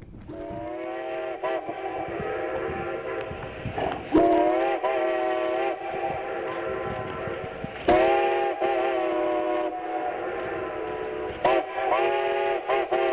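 Steam locomotive whistle blowing a long, multi-note chord, sounded again more loudly about four, eight and eleven and a half seconds in, each blast dipping in pitch as it starts.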